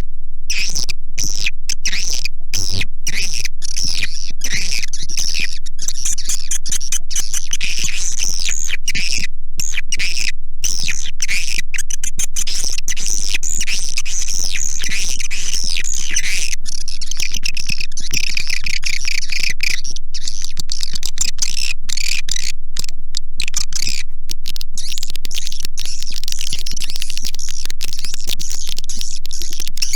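Recorded swiftlet calls played as a lure: loud, dense, rapid high twittering and chirping, repeatedly broken by brief gaps.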